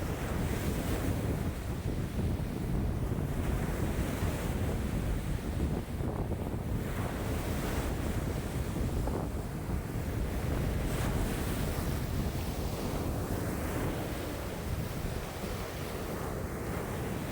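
Wind-driven waves breaking and washing on a lake shore in strong wind, with wind buffeting the microphone as a steady low rumble. The wash swells and eases every few seconds.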